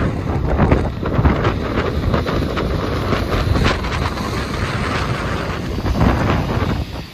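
Strong gusty wind buffeting the microphone, a loud rumbling roar that rises and falls with the gusts and drops briefly near the end.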